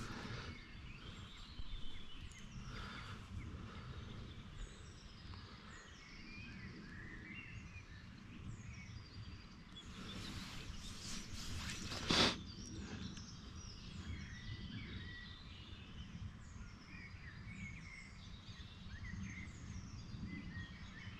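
Small birds calling over and over with short, falling chirps above a steady low rumble. About halfway through there is a brief rustle that ends in a sharp knock.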